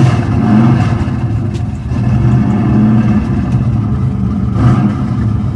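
Car engine running loudly, its pitch rising and falling as the throttle is worked, with a sharper rev near the end.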